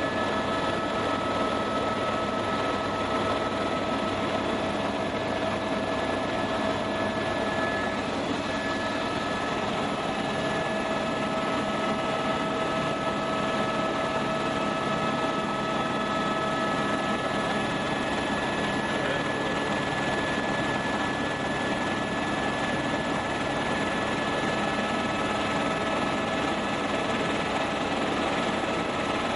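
Helicopter in flight, heard from inside the cabin: a steady rush of rotor and engine noise with a constant whine of several steady tones running through it.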